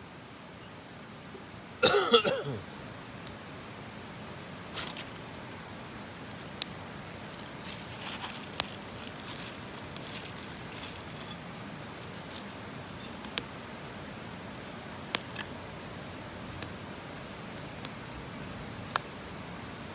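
Wood campfire crackling: sharp single pops every second or two over a steady hiss. About two seconds in there is a louder, brief sound with a wavering pitched edge.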